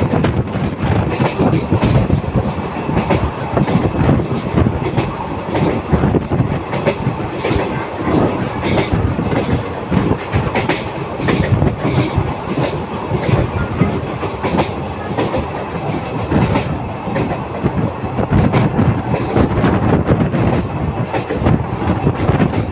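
Train running at speed across a concrete railway viaduct, heard from on board: a steady rumble of wheels on rail with continuous rapid clattering.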